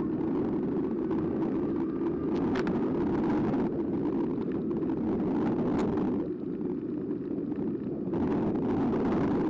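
Riding noise of a Carbo X e-bike on a bike-mounted camera: a steady rumble of tyres and wind on the microphone, with a few faint clicks.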